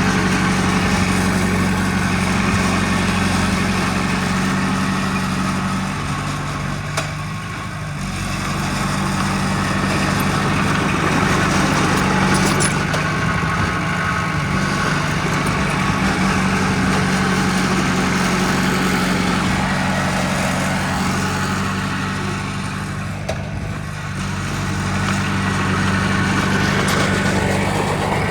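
Heavy diesel engine of earthmoving machinery running steadily, easing off briefly twice.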